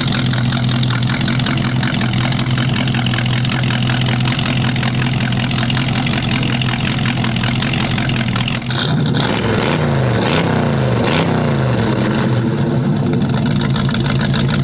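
Chevy 400 stroker small-block V8 in a Beetle hot rod idling steadily through a Remus side exhaust, then revved briefly a few times about nine seconds in, the pitch rising and falling with each blip before it settles back to idle.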